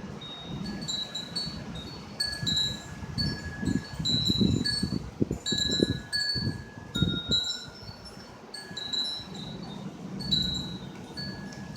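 Wind chimes ringing in the wind, several high metal tones sounding and overlapping. Underneath, a low rumble swells and is loudest in the middle.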